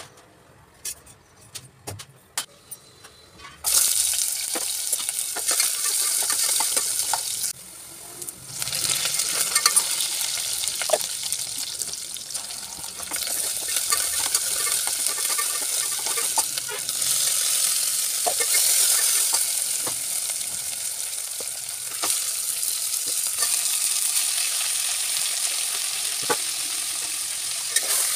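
Chopped onions, green chillies and curry leaves sizzling in hot oil in an aluminium pot, with a steel ladle tapping and scraping the pot as they are stirred. A few faint clicks come first; the sizzle starts suddenly about four seconds in, drops off briefly near eight seconds, then carries on.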